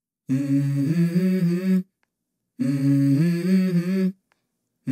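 A voice humming a short stepped melody, in two phrases of about a second and a half each with a short silence between them.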